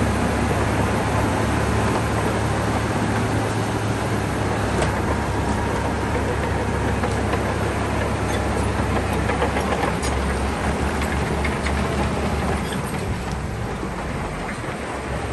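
Shantui crawler bulldozer working: its diesel engine runs steadily under a low hum, with scattered clanks and knocks from the machine. It eases off slightly near the end.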